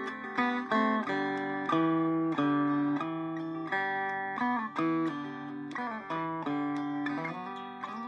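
Circa 1936-37 Vega electric banjo played in simple clawhammer style: a steady run of plucked notes and brushed chords, several a second, each note ringing on briefly.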